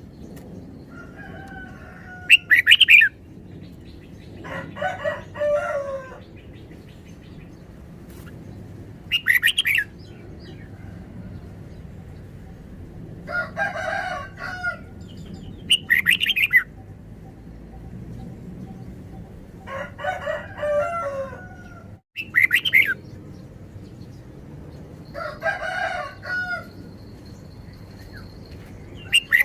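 Red-whiskered bulbul singing in repeated short phrases every few seconds: brief loud whistled notes alternating with longer, lower chattering phrases, over a steady low hum.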